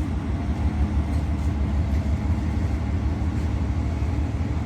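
A heavy engine running steadily: an even, low rumble with no change in speed.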